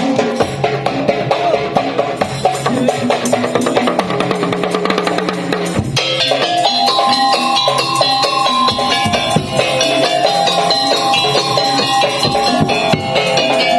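Madurese tong-tong (daul) ensemble playing: wooden slit drums and drums beat out a dense, fast rhythm. About six seconds in the arrangement changes and held melodic notes come in over the percussion.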